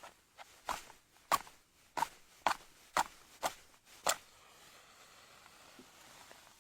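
A run of about eight sharp knocks or crunches, roughly two a second, stopping about two-thirds of the way through.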